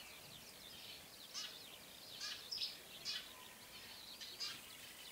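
Small songbirds chirping in the background, short high calls every second or so, over a faint outdoor hiss.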